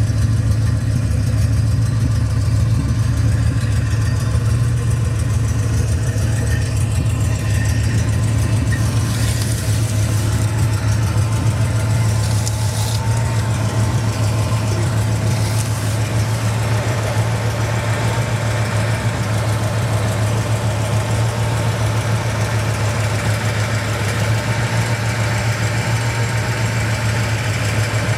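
1967 Cadillac Eldorado's 429 V8 idling steadily, heard through its enlarged true dual exhaust.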